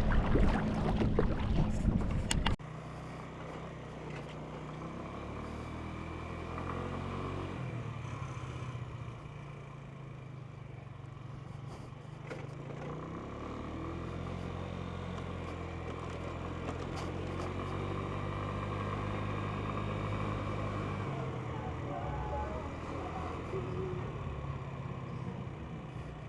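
A loud rushing noise for the first two and a half seconds, then a sudden cut to the Genuine Buddy 125 scooter's single-cylinder four-stroke engine running under way. Its pitch rises and falls a few times with the throttle.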